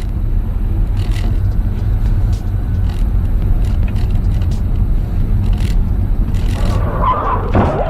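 Road vehicle driving noise: a steady low rumble with a few faint knocks. Near the end comes a short wavering higher tone that bends up and down.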